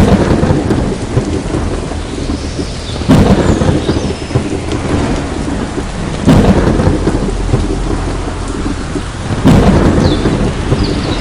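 Thunderstorm: heavy rain falling steadily, with sudden claps of thunder about every three seconds, each rolling off into a low rumble.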